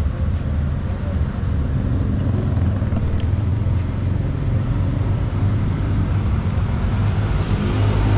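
Motor vehicle engine and road noise: a steady low rumble.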